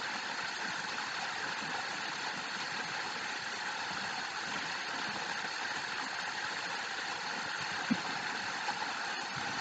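Waterfall: rushing water in a steady, even hiss, with one faint tap about eight seconds in.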